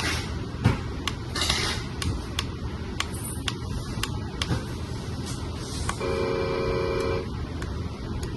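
Electronic sound unit of a 1/14-scale RC tractor truck: scattered clicks and a few short hisses, then a steady horn blast lasting about a second, starting about six seconds in.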